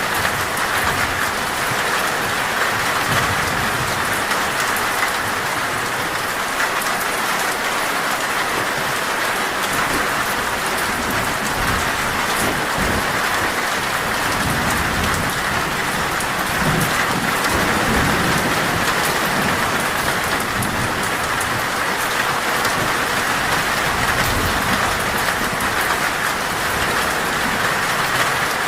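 Torrential rain falling on a metal roof, a steady dense patter, with low rumbles of thunder through the middle stretch.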